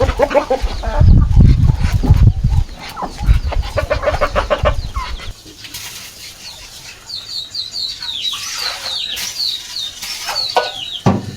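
Chicken clucking and squawking with heavy wing-flapping for the first few seconds, then a run of short, high, falling peeps.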